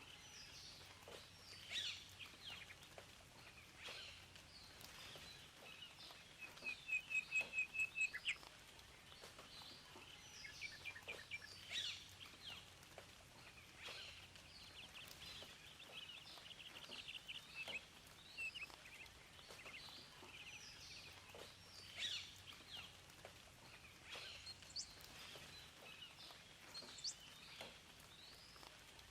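Several wild birds chirping and singing over a faint steady hiss, with one loud run of about eight quick repeated notes a few seconds in.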